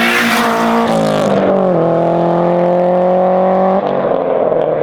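Turbocharged Honda K20A2 four-cylinder in an Acura RSX pulling hard, its note climbing. The pitch drops at a gear change about a second and a half in, climbs again, and breaks off near four seconds as the driver shifts or lifts.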